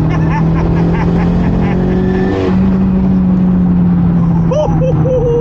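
Big-turbo Audi B5 engine accelerating hard at about half throttle, heard from inside the cabin, with a gear change about two and a half seconds in marked by a short whoosh. A voice exclaims briefly near the end.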